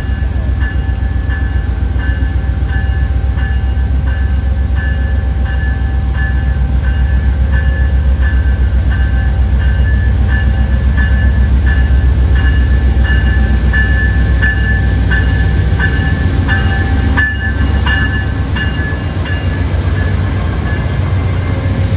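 A train rolling past close by, with a steady heavy rumble and a quick, even run of clicks from its wheels.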